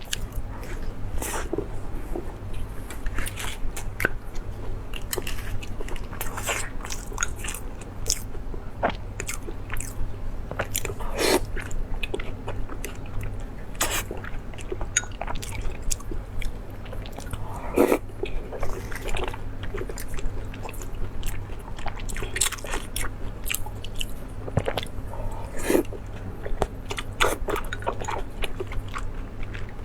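Close-up eating sounds of a person biting and chewing spicy seafood, with irregular crunches and cracks throughout, over a steady low hum.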